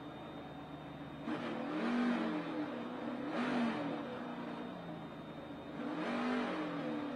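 NASCAR Cup stock car's V8 engine at racing speed, heard from inside the car, its pitch repeatedly rising under throttle and falling off, with three louder surges.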